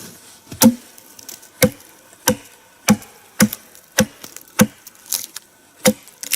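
Axe chopping into a log, about ten sharp strikes in a steady rhythm, hewing away the bark and outer wood.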